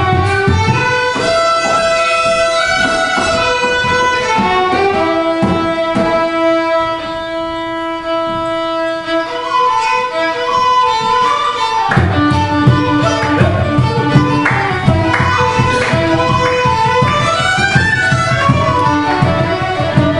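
Fiddles playing Irish traditional dance tunes, with quick runs and some long held notes. A lower accompaniment drops out about a second in and comes back strongly about twelve seconds in.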